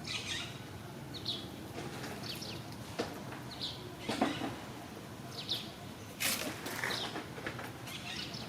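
Short, high chirping calls repeating about once a second, with a few rustles about six seconds in.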